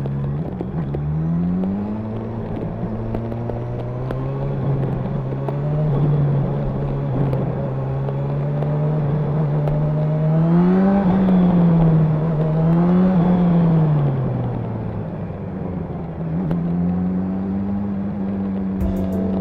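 Honda CB1000R's inline-four engine and exhaust under way, the revs changing with the throttle: the pitch climbs about a second in and holds, rises and falls twice about halfway through, drops, and picks up again near the end.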